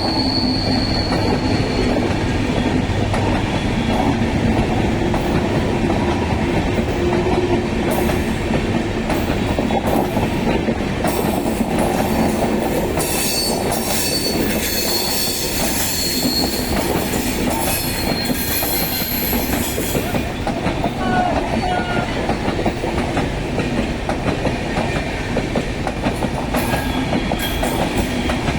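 Express train's coaches rolling past on the track: a steady, loud rumble with clickety-clack over the rail joints and intermittent high-pitched wheel squeal.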